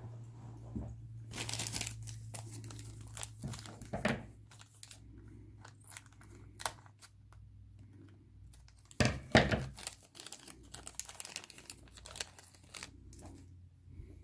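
Plastic bags of miniatures crinkling and being torn open, in irregular rustles and clicks, loudest about a second and a half in and again about nine seconds in.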